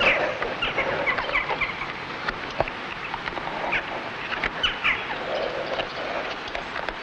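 Birds chirping: short, quick calls repeated at irregular intervals over a steady outdoor background hiss.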